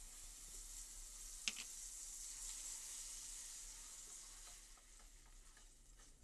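Onion-tomato paste sizzling in hot oil in a steel pan as it is stirred with a wooden spatula. There is one sharp tap about a second and a half in, and the sizzle slowly dies down toward the end.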